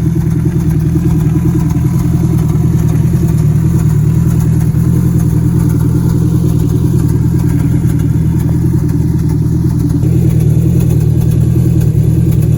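Turbocharged Honda K24A inline-four in a 1996 Prelude, running at a steady idle on its first start-up after the engine swap.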